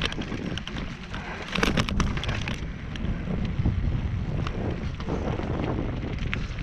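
Strong mountain wind buffeting the microphone: a low, gusting rumble, with a cluster of crackles and knocks around two seconds in.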